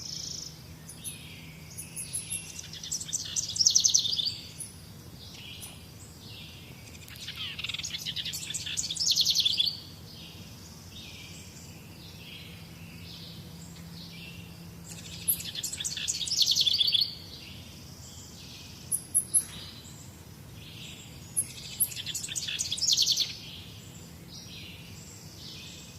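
Wild birds singing: one bird repeats a loud, rapid trilled phrase four times, about every six or seven seconds, while other birds keep up short repeated chirps between the phrases.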